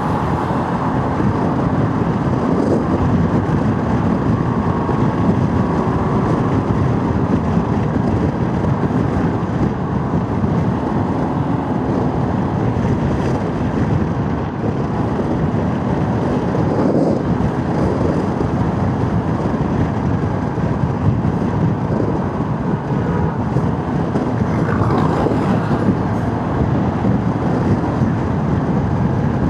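Motorcycle under way on a rough, wavy road surface: a steady mix of engine, tyre and road noise with wind on the microphone.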